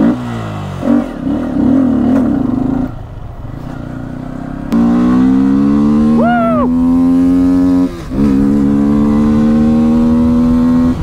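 Yamaha R15 V3's single-cylinder engine with an aftermarket sound air filter, ridden for a sound check. It runs unevenly at first, then pulls hard from about five seconds in, its pitch climbing steadily; the pitch drops at a gear change near eight seconds and climbs again.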